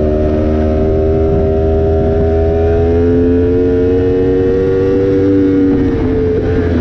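Yamaha R1M crossplane inline-four running through an SC Project exhaust under way, its pitch climbing slowly as the bike pulls in gear, then dropping about six seconds in as the revs come down.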